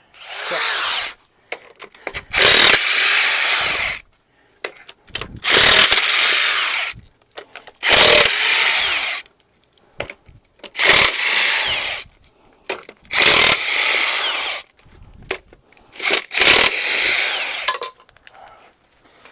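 A power tool run in about seven short bursts of roughly a second each, with pauses between, several starting with a sharp click.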